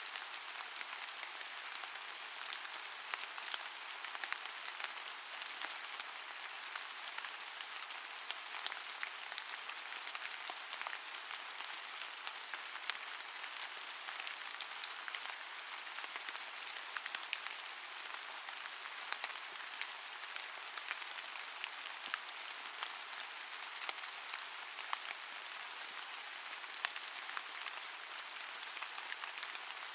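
Steady rain, with a dense patter of small drops crackling over an even hiss.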